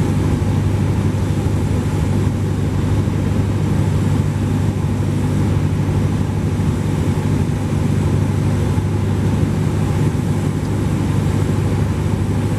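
Cessna 172P's four-cylinder Lycoming engine and propeller droning steadily, heard from inside the aircraft, with no change in pitch or level.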